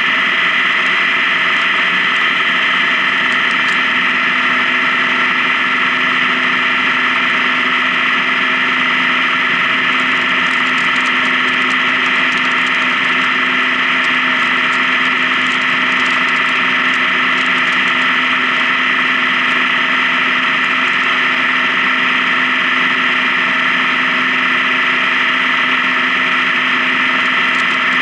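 Honda Gold Wing touring motorcycle cruising on the highway, its engine running at a steady, unchanging pitch under a constant rush of road noise.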